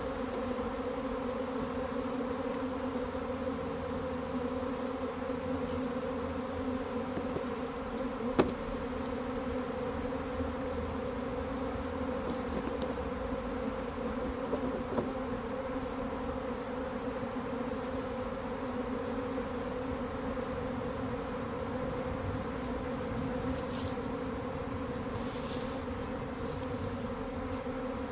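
Honeybees buzzing in a steady, dense drone around an opened hive, with a single sharp click about eight seconds in.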